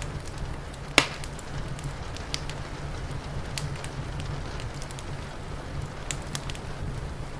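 Wood fire crackling with scattered sharp pops, one much louder pop about a second in, over a steady low rumble and a soft hiss of rain.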